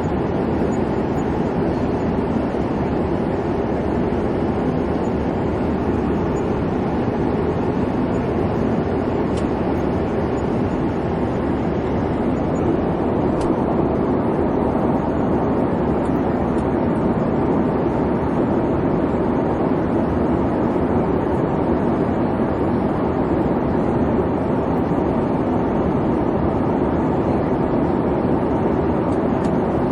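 Airliner cabin noise in flight: the steady rumble of the engines and rushing air, even and unbroken.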